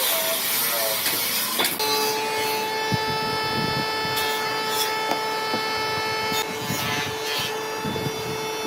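Wood being worked by hand, with rasping and rubbing strokes and scattered knocks. A steady hum comes in about two seconds in and carries on under them.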